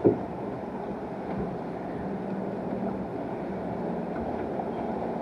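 Log flume boat riding along its water channel after a drop: a steady rush of water and wind noise on the microphone, with one knock right at the start.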